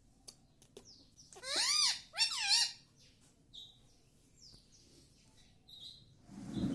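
Indian ringneck parakeet vocalizing: two loud bursts of quick up-and-down squawking notes about a second and a half in, with soft high chirps before and after. A low, dull sound comes near the end.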